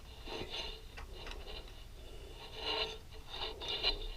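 Faint clicks and rubbing scrapes of metal engine parts being handled and fitted by hand during engine assembly, with a few brief clusters of handling noise.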